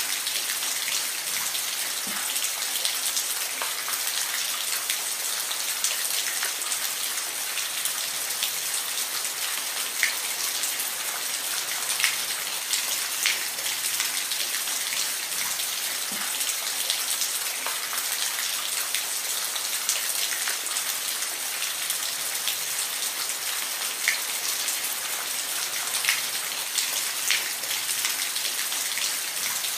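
Steady rain falling, a dense hiss with scattered louder drops ticking on a surface.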